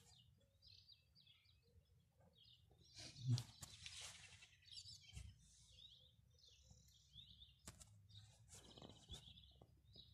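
Quiet outdoor ambience with faint, intermittent chirps of small birds and a few soft knocks.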